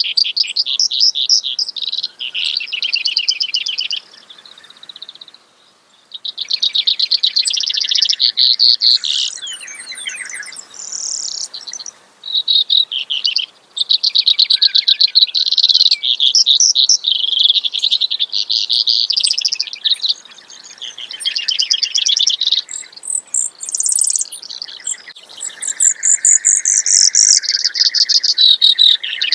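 Brewer's sparrow singing: a long run of rapid trills that change in pitch and speed from phrase to phrase, with short breaks between them.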